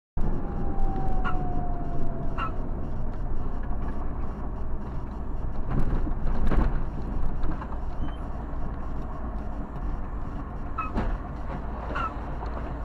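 Steady low road and engine rumble of a moving vehicle, with a faint falling tone in the first two seconds and several short knocks. The loudest stretch comes about six seconds in.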